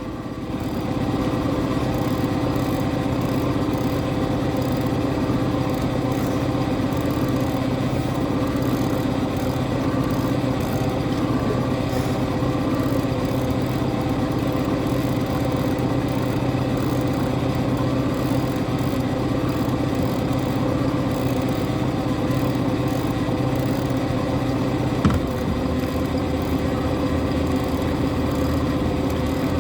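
Boat engine running steadily at idle, an even drone, with one brief knock about 25 seconds in.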